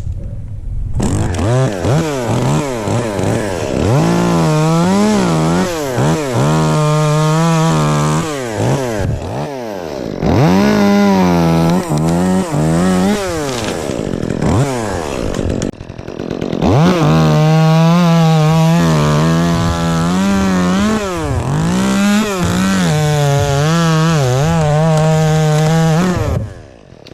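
Chainsaw revving up and down and then held at high revs while cutting ash wood, in three stretches broken by short pauses, stopping shortly before the end.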